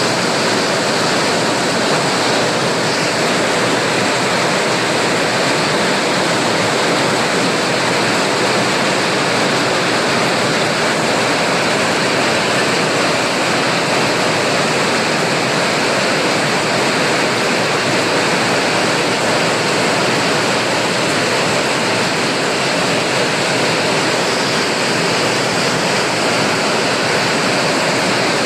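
Rain falling steadily as a dense, even hiss with no let-up.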